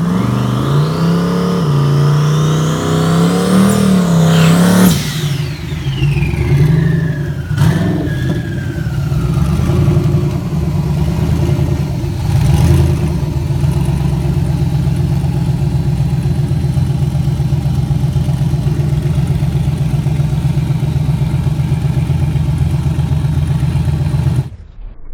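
Twin-turbo Chevy pickup's engine revved up with a rising turbo whistle, then the throttle snaps shut about five seconds in and the whistle falls away as the turbos spool down. The engine then settles to a steady pulsing idle, which cuts off suddenly near the end.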